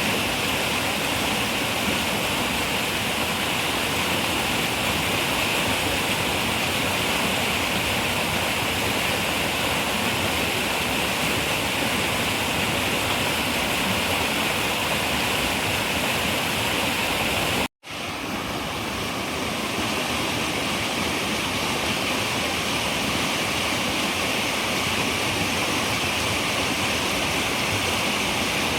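Running river rushing steadily. About two-thirds of the way through the sound cuts out abruptly for a moment, then fades back in.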